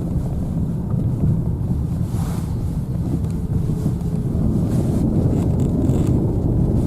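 Steady low rumble of a car's road and engine noise heard inside the cabin.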